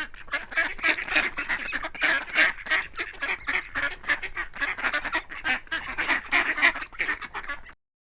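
Ducks quacking in a rapid, continuous chatter of many overlapping calls, which cuts off abruptly near the end.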